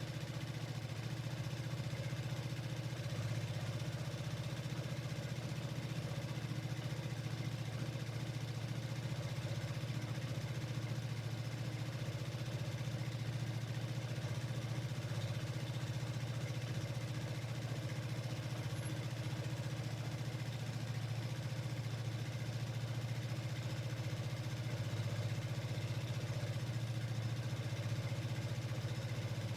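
Vespa Sprint 150 scooter's single-cylinder four-stroke engine running steadily at an unchanging low pitch, with no revving, as at idle.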